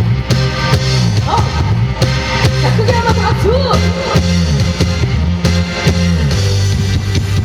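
Live band playing an instrumental intro with a steady beat: drum strikes over a repeating bass line, with gliding melodic notes above.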